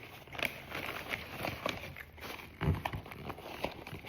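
Eating sounds: scattered clicks and crackles of chewing fries and handling the paper food packaging, with a dull thump a little before three seconds in.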